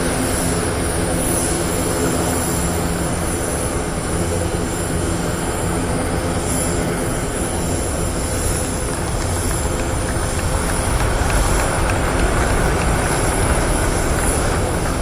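Aircraft engines running: a steady, loud rumble with a thin high whine above it.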